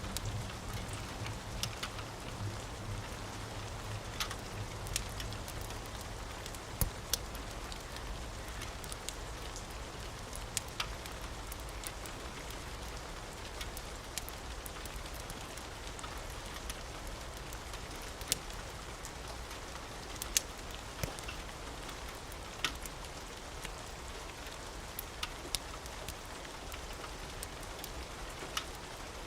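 Steady rain hiss with scattered sharp crackles and pops from a wood fire. A low rumble fades away in the first couple of seconds.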